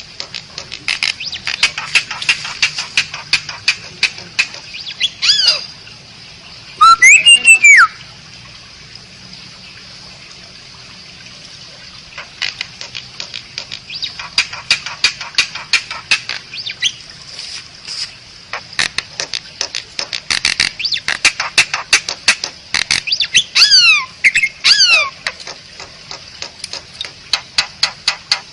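Asian pied starling (jalak suren) singing: rapid runs of dry clicking notes broken by whistled glides, with a very loud rising-and-falling whistle about seven seconds in and a few falling whistles near the end.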